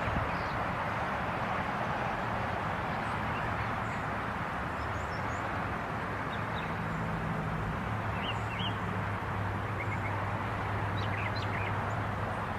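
Steady outdoor background noise with a low hum, and scattered short bird chirps.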